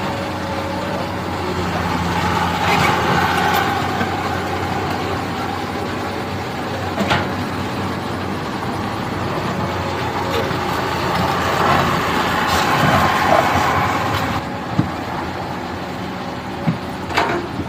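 Heavy diesel engines of a dump truck and an excavator running steadily as the excavator tows the truck through mud, with a few sharp knocks and clanks.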